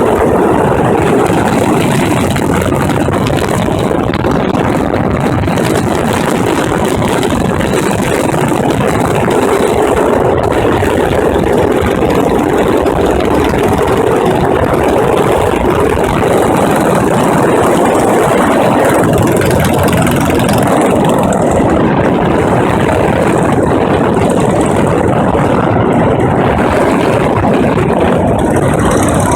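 1937 BSA M20's single-cylinder side-valve engine running steadily while the motorcycle is ridden.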